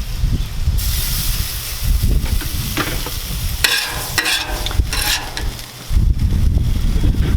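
Cod fillets sizzling on a Blackstone flat-top griddle, a steady hiss with a few short sharp scrapes or clicks of a metal spatula on the steel.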